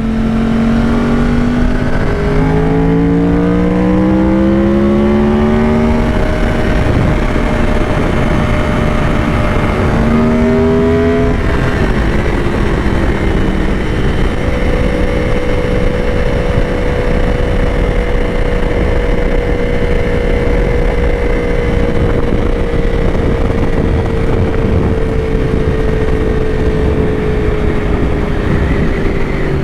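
Yamaha R1 inline-four sport-bike engine, heard on board, pulling up through the revs twice in the first dozen seconds, then holding a steady, slowly falling pitch at cruise. Constant wind rush runs underneath.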